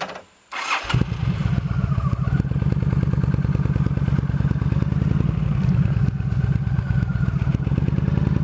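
Yamaha V-Star V-twin motorcycle engine being started: a click and a brief turn of the starter, then the engine catches about a second in and settles into a steady, even idle.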